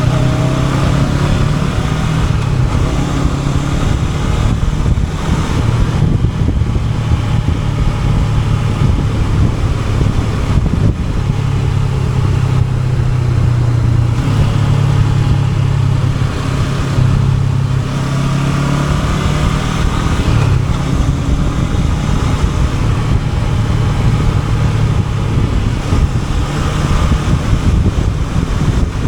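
Honda NX500's parallel-twin engine running under way on the road, its note holding steady, then stepping up and down with short breaks a few times as the throttle changes, with wind noise on the microphone.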